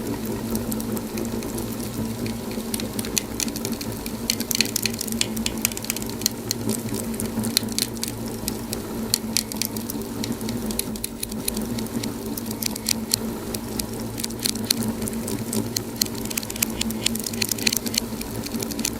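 Wood fire crackling and popping, with many quick irregular snaps over a steady low rumble.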